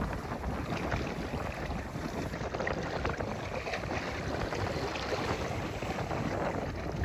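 Steady wind and sea noise, with wind buffeting the microphone.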